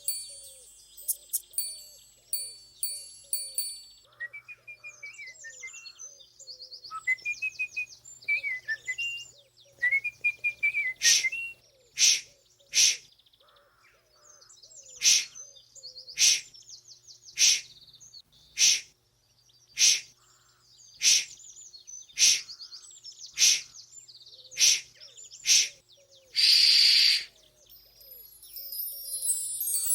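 Gentle background music with bird-like chirping sound effects. These give way to a regular series of short, sharp clicks about once a second, and a loud burst of hiss near the end.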